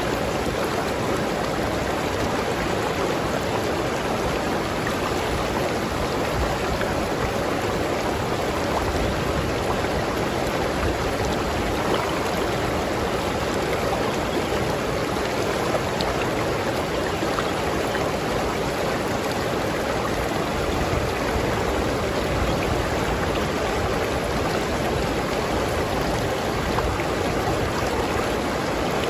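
River stream flowing over rocks: a steady, even rush of water with no breaks.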